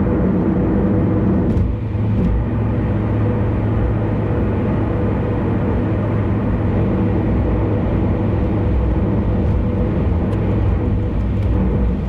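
Steady road noise of a car driving on an expressway: low rumble of tyres and engine with a faint steady hum.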